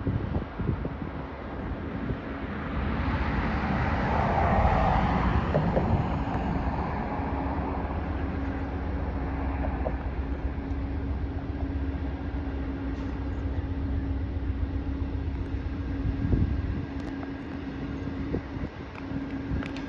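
Amtrak passenger train pulling out, its diesel locomotive running with a low rumble and a steady hum. The noise swells about four seconds in, then settles back to a steady running sound.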